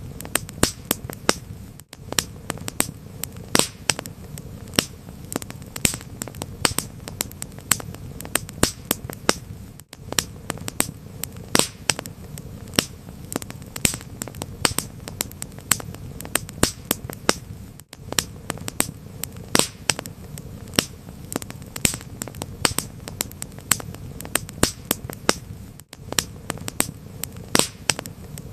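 Wood fire crackling: sharp pops and snaps, several a second, over a steady low rumble, with a very brief dropout about every eight seconds.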